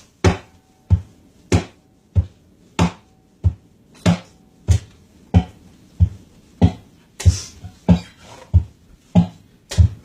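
A steady percussive beat of deep thumps, about three every two seconds, held in strict time like a looped rhythm track, with a brief hiss about seven seconds in.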